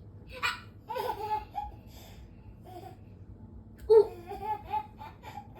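A baby laughing in several short, high-pitched bursts, the loudest about four seconds in.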